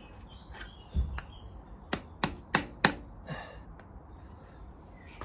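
Sharp taps as a new crankshaft oil seal on a VW Beetle air-cooled engine is driven a touch further into its bore. A duller knock about a second in, then four quick taps about a third of a second apart.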